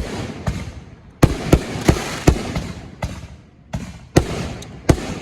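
Fireworks bursting overhead: a rapid, irregular string of about ten sharp bangs, each trailed by fading crackle, with a brief lull about a second in.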